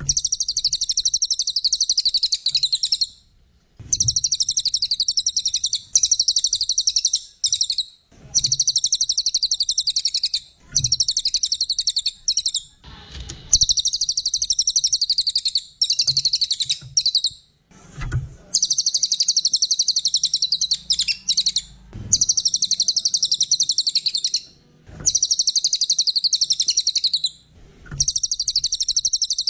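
A songbird singing a rapid, high-pitched chattering song in repeated phrases of two to three seconds with short pauses between them, with a faint low knock at the start of several phrases.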